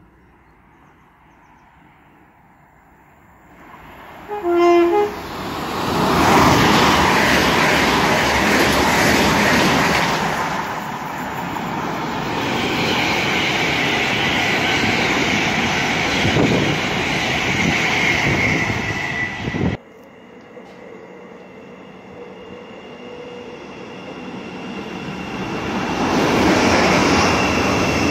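Electric passenger train sounding a short horn blast about four seconds in, then running through the station at speed, loud wheel-and-rail noise with a high whine. After a sudden cut, another fast train approaches and passes close by near the end.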